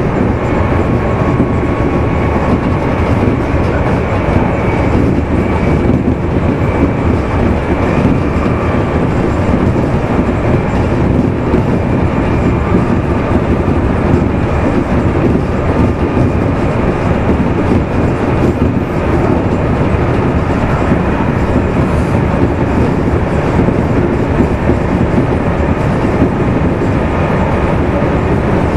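Running sound of a Meitetsu 2200 series electric train, heard from motor car Mo 2310 at a steady pace: a constant rumble of wheels on rail, with a faint whine that comes and goes.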